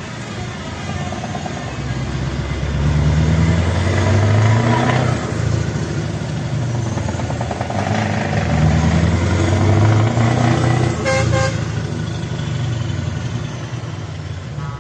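Scania V8 truck engine with loud exhaust pipes running under load, its sound swelling twice as it pulls through the gears. A short horn toot about eleven seconds in.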